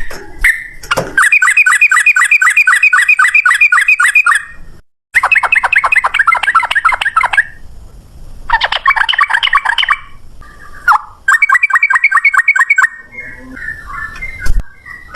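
Yellow-vented bulbul (trucukan) singing in fast rolling trills: four bursts of rapidly repeated notes, about seven a second, each burst lasting one to three seconds with short pauses between.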